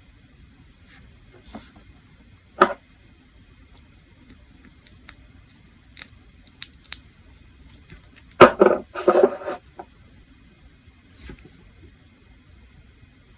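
Small handling noises from nail-care work at a desk: a sharp click, a few light ticks, then a short burst of rustling and clatter about eight seconds in.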